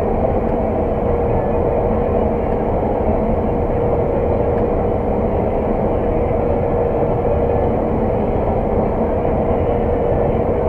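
Claas Lexion 600 TT combine harvester running steadily under load while combining oilseed rape, heard from inside the cab as an even drone with a constant hum.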